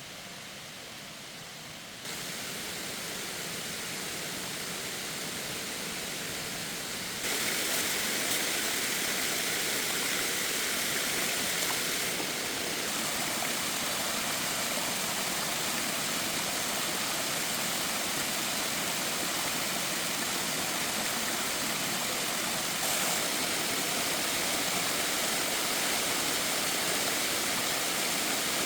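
Steady rushing of water from a waterfall or mountain stream, getting louder in sudden steps about two and seven seconds in.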